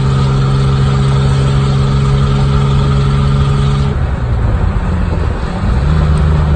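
Nissan car's engine and loud aftermarket exhaust running at a steady note while driving, heard from inside the cabin with the window down. About four seconds in the note breaks up and wavers, then settles again at a steady pitch near the end.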